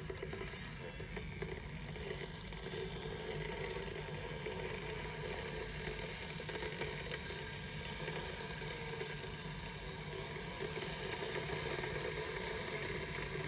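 Philips HD9306 stainless steel electric kettle heating water toward the boil: a steady rumbling hiss, growing slowly louder.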